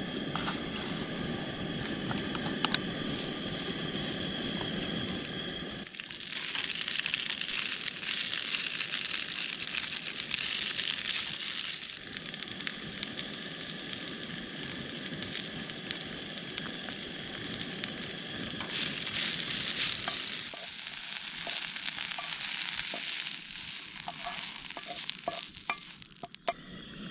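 Food sizzling and frying in a hot pan, a steady hiss that changes character a few times, with a few light clicks near the end.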